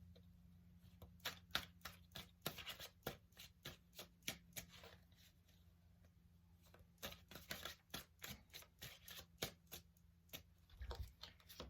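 Tarot cards being shuffled by hand: faint, quick clicks and flicks of the cards in two spells, with a short lull between.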